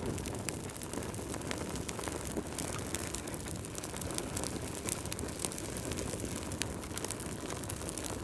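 Wood fire crackling: a steady low rush of flames with frequent small sharp pops and snaps.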